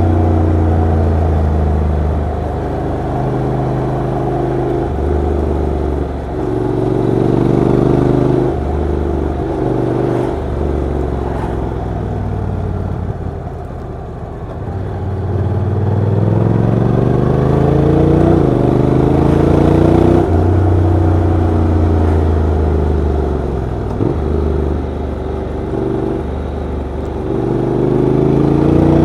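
Honda NC750X DCT motorcycle's parallel-twin engine riding under load. It revs up through the gears, and the pitch drops sharply at each quick automatic shift. About twelve seconds in it eases off, with the pitch sinking for a few seconds, then pulls and shifts up again.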